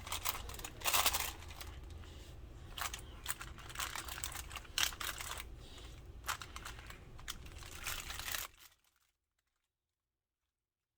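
Kitchen handling noise while sauce goes onto raw chicken wings: irregular clicks, taps and crinkling over a steady low hum. It cuts off abruptly to silence about eight and a half seconds in.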